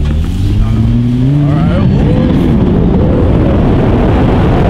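The 2017 Nissan GT-R Nismo's twin-turbo V6 is pulled hard under full acceleration, its engine note rising steadily for about two seconds. It then gives way to a loud rush of wind noise on a microphone held out of the car's window.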